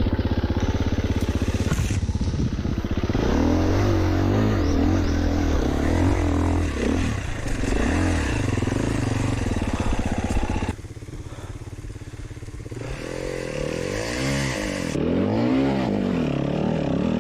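Four-stroke enduro dirt bike engine revving up and down in repeated blips of the throttle. About two-thirds of the way through it drops suddenly to a lower, quieter note, then revs up and down again.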